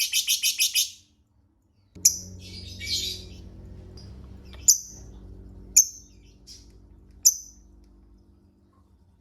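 Lovebird chattering in a fast, even series of high calls, about six a second, that breaks off about a second in. After a short silence come single sharp chirps, four of them spaced a second or more apart, over a faint low hum.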